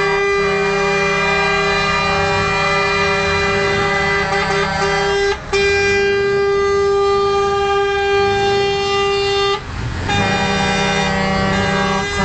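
Scania truck's air horns sounding long held chords, broken twice, about five and a half seconds in and again near ten seconds, with the chord changing after each break.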